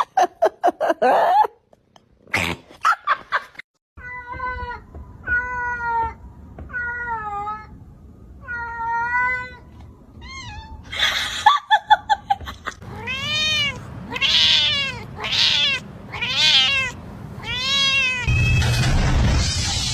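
Domestic cat meowing: a quick run of clicks or taps first, then four meows, then a louder series of five drawn-out meows that each rise and fall in pitch.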